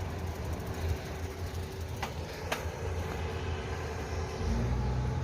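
Low, steady rumble of a motor vehicle, with two short sharp clicks about two seconds in; the rumble grows louder near the end.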